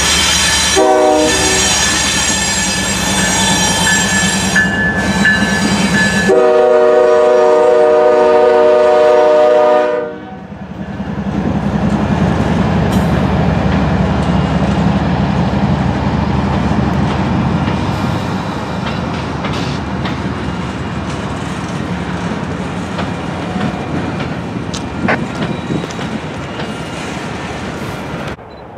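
Union Pacific diesel-electric freight locomotives running past with an air horn blowing, a steady chord that cuts off about ten seconds in. Then empty covered hopper cars rolling by, their wheels clicking over the rail joints.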